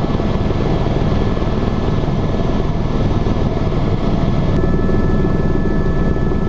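Tour helicopter's engine and rotor noise heard from inside the cabin in flight: a loud, steady roar with a thin high whine running through it.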